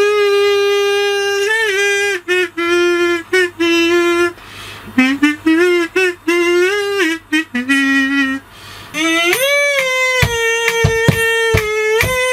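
A kazoo buzzing a melody in short hummed phrases. From about 9 s a kazoo tone is held while sharp clicks tick regularly, about three a second.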